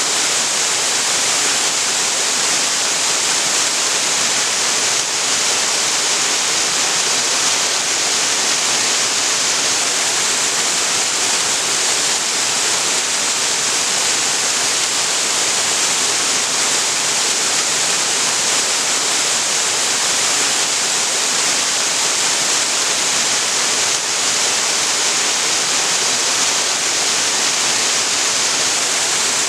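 Waterfall: water pouring over rock into a pool, a steady loud rushing hiss with no breaks.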